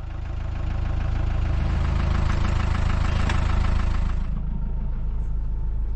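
A motor vehicle's engine running steadily, easing off slightly about four seconds in.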